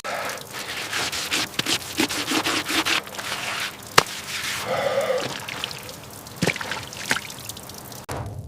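Irregular rubbing and scraping of hands at work, with a single sharp knock about four seconds in.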